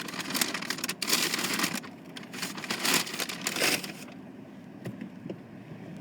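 Paper fast-food bag and wrappers rustling and crinkling as they are handled, loud and crackly for about four seconds, then a few faint rustles.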